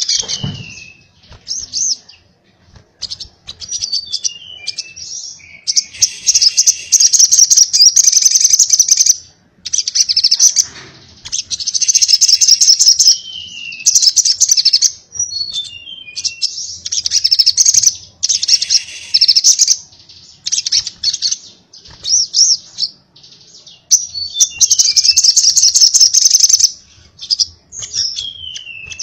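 Crimson sunbird (sogok ontong) singing: repeated bursts of rapid, high-pitched twittering, each lasting two to three seconds, broken by short falling slurred notes.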